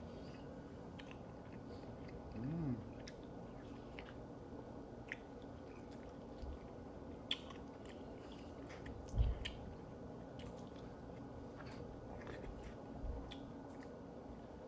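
Faint wet chewing with scattered mouth clicks as someone eats cheesy food. A short hummed "mmm" comes about two and a half seconds in, and a couple of soft low thumps follow later.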